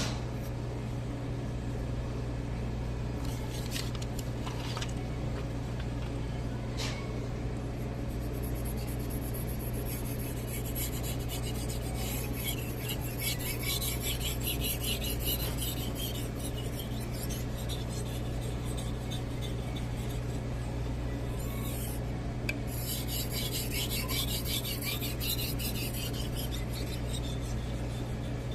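Knife blade scraping back and forth on a Shapton Glass 2000 whetstone. After a few scattered clicks, the scraping strokes run steadily from about a third of the way in, pause briefly about three-quarters through, then resume. A low steady hum runs underneath.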